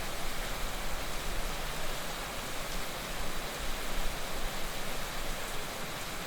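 Heavy rain falling steadily: a dense, even hiss with small flickers of louder spatter.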